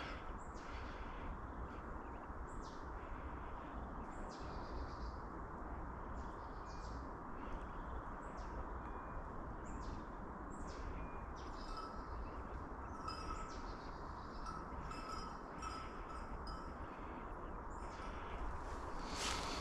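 Small bird calling: short, high chirps that each drop quickly in pitch, repeated roughly once a second and busier in the second half, over a steady background hiss.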